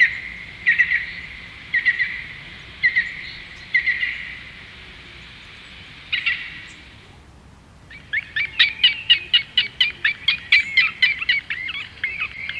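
Birds calling: a short two-part call repeated about once a second over a steady hiss, then, after a brief pause, a fast run of loud chattering notes, about five or six a second.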